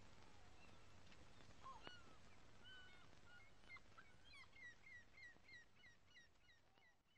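Faint outdoor ambience with birds chirping, ending in a quick run of repeated chirps, about three a second, as it all fades out.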